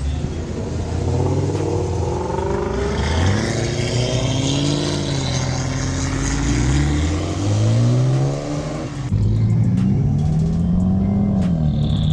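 Car engines revving hard, their pitch climbing and falling again and again as the cars pull through a turn, with an abrupt change about nine seconds in and a high screech, like tyres, near the end.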